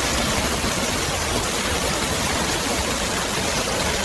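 A steady, even rushing hiss with no rhythm or pitch in it, of the kind running water makes.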